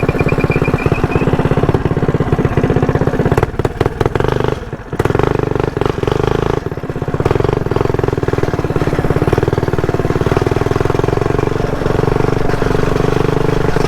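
Mini bike's small single-cylinder four-stroke engine running under throttle while riding. The throttle eases off briefly about four seconds in and again near seven seconds, then the engine holds steady at high revs.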